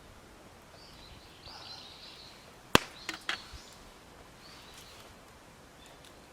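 Birds chirping intermittently in the background. About three seconds in there is a sharp crack, the loudest sound, followed quickly by two lighter clicks.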